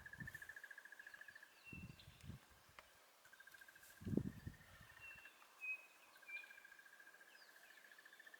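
Faint natural ambience: a high, rapidly pulsing trill that runs in long stretches with short breaks, a few brief bird chirps above it, and two short low thumps about two and four seconds in.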